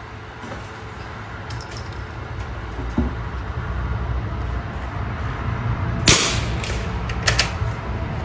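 A single shot from a Winchester 52C .22 rimfire target rifle about six seconds in, sharp with a short ring after it. It is followed about a second later by a few quick clicks, over a low steady rumble.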